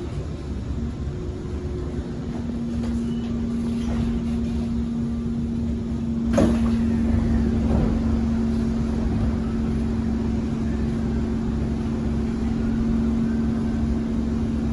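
Kawasaki C151 MRT train cabin at a station stop: a steady low hum over a rumble, then a sharp clunk about six seconds in as the passenger doors open.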